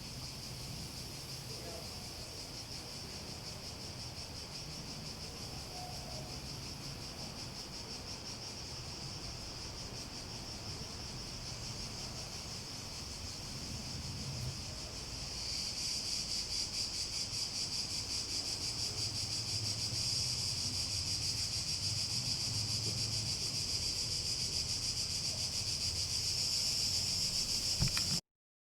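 Cicadas buzzing in a steady, fast-pulsing high chorus that grows louder about halfway through, then stops suddenly near the end.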